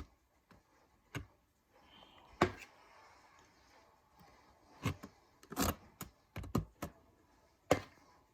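Spoon or spatula tapping and scraping against a dish while cream is spread over graham crackers: a few short clicks and knocks, with a soft scrape between them.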